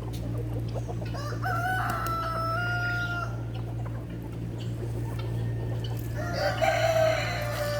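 Roosters crowing twice: one drawn-out crow about a second in and another near the end, over a steady low hum.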